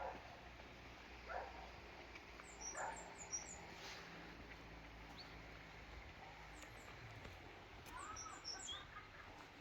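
Small birds chirping faintly in two quick runs of short, high notes. A dog barks faintly a few times in the first few seconds.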